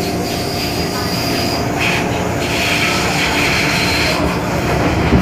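MTR M-Train electric multiple unit running on the Tsuen Wan Line, with a thin high whistle near the start and then a high squealing screech from about two seconds in.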